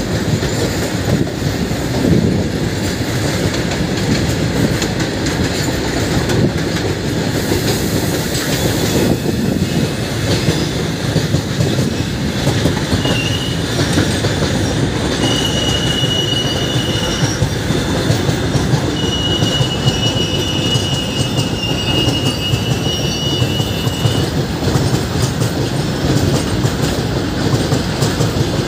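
Steady rolling rumble and rail clatter of trains running side by side, heard from one moving train as it overtakes a long goods train of covered wagons on the next track. Near the middle, a thin high wheel squeal sounds twice, first for about two seconds, then for about five.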